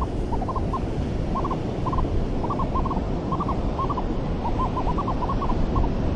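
Metal detector giving many short, high beeps in quick clusters as it sweeps over sand, over a steady wash of surf and wind on the microphone.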